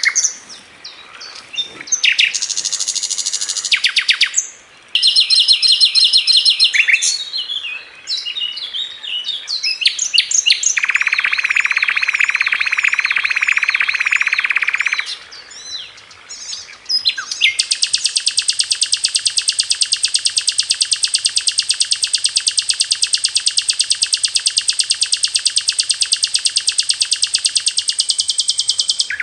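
Sikatan Londo songbird singing a varied run of high, fast phrases, then, about halfway through, one long very rapid trill: the rapid-fire 'tembakan' song.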